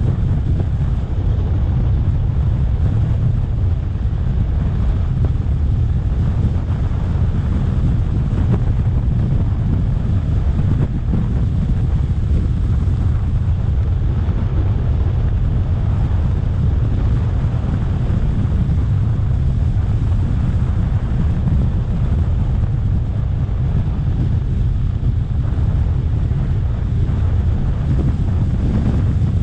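Steady wind buffeting the microphone of a moving electric scooter, a constant low rumble with no breaks.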